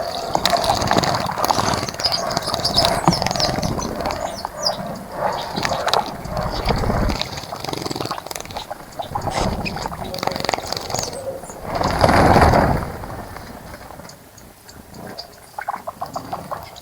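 Small birds bathing in a shallow bird bath, flicking and splashing water in irregular bursts, the biggest splash about twelve seconds in. High bird chirps sound over it in the first half.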